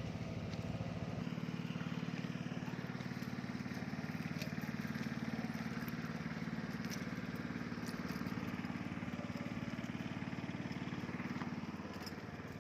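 Small boat engine running steadily at an even speed, with a fast, even firing beat; it gets a little quieter near the end.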